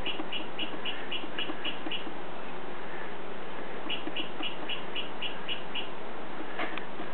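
A bird chirping in two runs of about eight short, evenly spaced chirps, about four a second, with a pause between them. A short click comes near the end.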